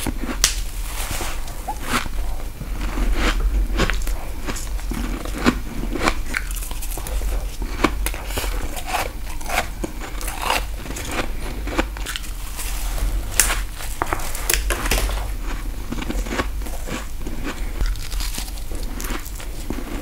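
Close-miked bites into frost ice grown in a deep freezer with a humidifier: a dense run of irregular sharp crunches and crackles as the frost is bitten and chewed.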